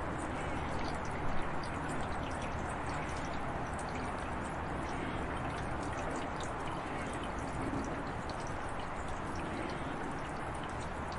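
Steady rush of falling water with many small drips and splashes scattered through it.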